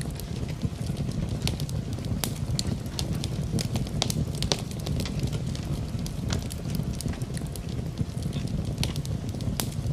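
Wood fire in a fireplace crackling, with many sharp, irregular pops over a steady low rush. Rain is mixed in with the fire.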